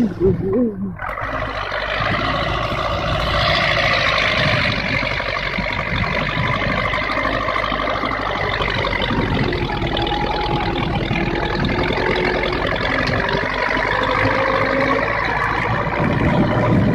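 Heavy vehicle engine running steadily, with a faint whine that drifts up and down in pitch.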